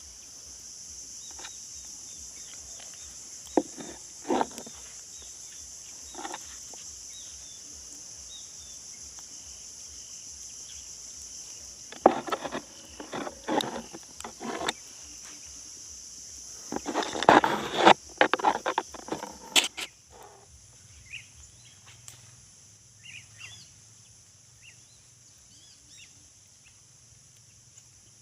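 Steady high-pitched insect drone that stops about two-thirds of the way in, with bursts of rustling and knocking around the middle, the loudest sounds here. Short bird chirps follow near the end.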